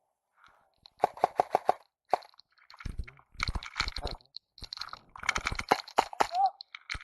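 Airsoft guns firing in quick strings of sharp shots. Five shots come within about a second near the start, and more strings follow around the middle and toward the end.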